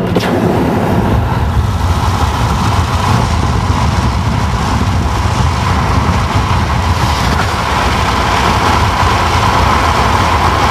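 A car driving at road speed, heard from inside the cabin: a steady rumble of tyres and engine with a rushing of wind noise.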